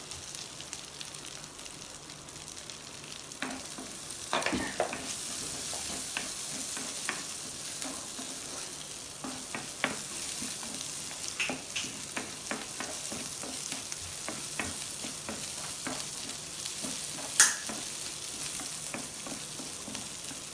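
Garlic and green chillies frying in butter, sizzling steadily while being stirred, with scattered scrapes and taps of the spatula on the pan and one louder knock near the end.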